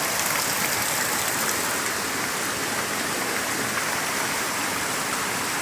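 Steady rush of a rain-swollen creek spilling over rock as a waterfall, an even hiss with no breaks.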